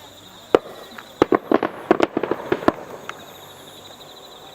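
A fireworks display: aerial shells bursting in a rapid, uneven string of sharp bangs, about a dozen in two seconds, then one fainter bang.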